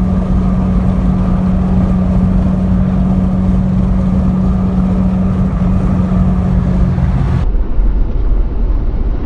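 Road and engine noise inside a car driving at a steady speed, with a steady engine hum. About seven and a half seconds in it cuts off suddenly and gives way to a duller low rumble.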